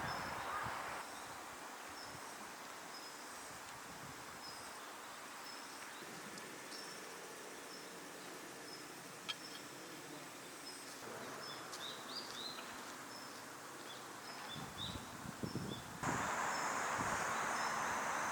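Faint open-air ambience of birds and grass insects, with a short high chirp repeating at an even pace. About two seconds before the end the background suddenly gets louder.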